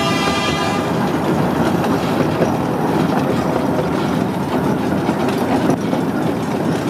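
Miniature ride-on amusement-park train running along its track, heard from an open passenger car: a steady rumble and clickety-clack of the wheels on the rails. The train's horn is still sounding at the start and cuts off about a second in.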